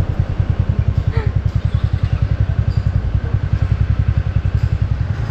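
Motorcycle engine idling steadily at a standstill, its exhaust making a rapid, even low throb.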